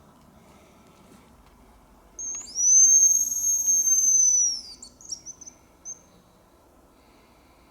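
A hazel grouse whistle call blown on a lure: a short high note, then a long, thin, very high whistle held for about two seconds, breaking into a few quick short notes at the end.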